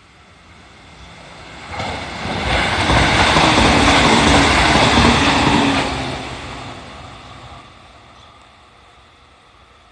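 JR 313 series electric train passing close by a level crossing. The rumble builds from about a second in, is loudest for a few seconds with a regular clatter of wheels over the rail joints, then fades away.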